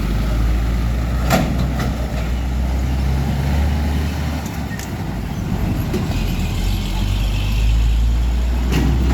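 Heavy diesel truck traffic: a deep, steady engine rumble that shifts as vehicles pass, with one sharp click about a second and a half in.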